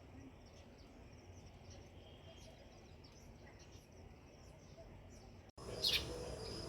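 House sparrows chirping: faint, scattered chirps over a low steady background noise, then an abrupt cut about five and a half seconds in to much louder, busier chirping.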